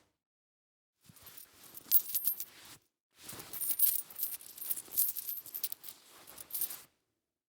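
Small metal objects clinking and jingling in two bursts, the first about a second in and the second, longer one after a short gap, with a high metallic ring on the clicks.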